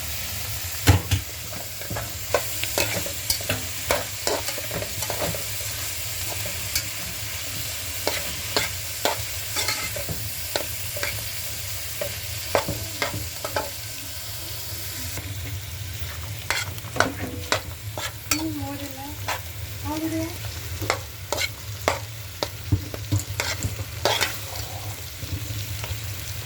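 Egg and vegetables frying in a hot pan with a steady sizzle, while a utensil stirs them and knocks against the pan many times.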